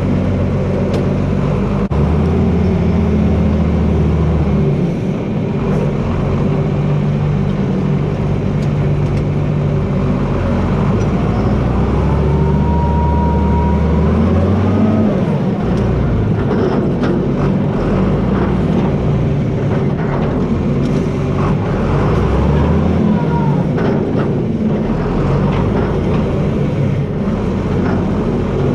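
John Deere 4320's six-cylinder diesel engine working under load, its pitch dropping and picking up several times as the blade pushes. A whine rises and falls twice over it, and a scatter of short sharp cracks comes in the middle stretch.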